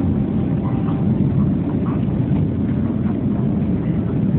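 Boeing 757-200's jet engines running: a loud, steady low rumble.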